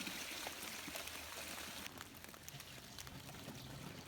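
Maple sap pouring from a collection bucket into a container with a hissing splash, which stops abruptly about two seconds in.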